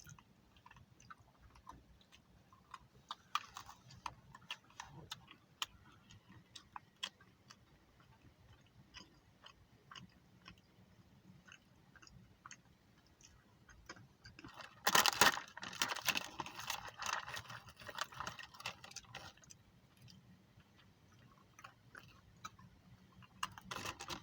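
A person eating close to the microphone: quiet chewing with scattered small mouth clicks. A louder crackling noise lasts about four seconds, some fifteen seconds in.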